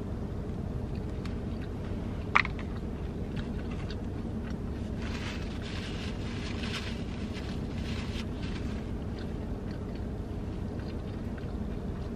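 Close-up chewing of a bite of crispy fried chicken sandwich over a steady low hum inside a car. One sharp crunch or click comes about two and a half seconds in, and faint crunching sounds follow in the middle.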